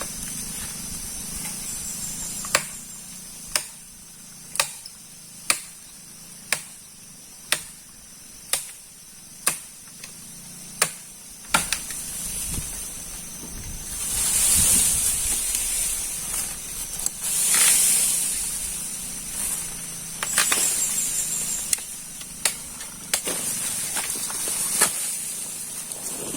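A steady high-pitched outdoor chirring like insects, with about ten sharp knocks roughly once a second in the first half, then two rushing swells of noise near the middle.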